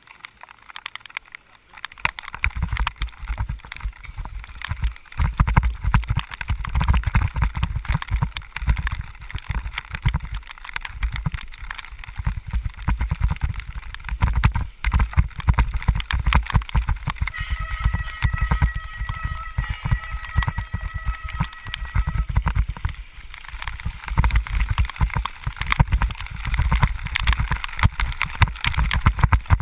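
Wind buffeting the microphone of a rider moving through rain, a heavy low rumble with constant wet crackle. About halfway through, a steady high squeal holds for about five seconds.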